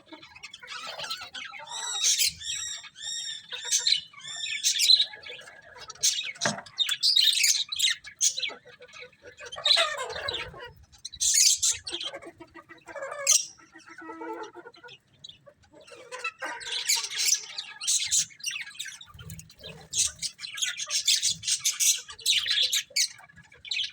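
Several budgerigars chirping and squawking, with overlapping calls coming in clusters and a quick run of repeated chirps a few seconds in.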